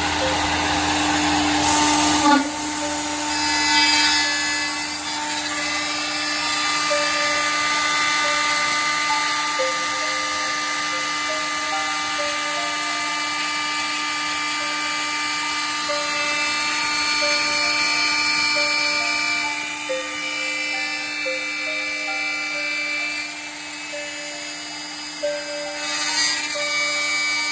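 CNC drilling and milling machine running, with a steady high whine from the spindle. Mid-pitched servo-motor tones step to a new pitch every second or so as the axes move. There is a brief louder burst about two seconds in.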